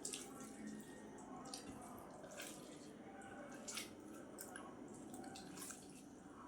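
Close-miked wet eating sounds from rice and vegetable curry: soft smacks and clicks about once a second over a low murmur.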